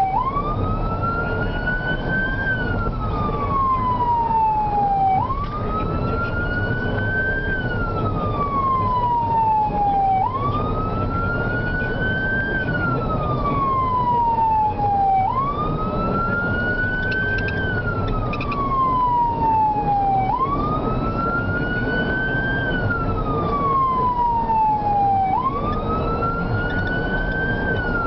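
Fire apparatus siren in a slow wail, rising and falling in pitch about every five seconds, over a steady low engine and road rumble.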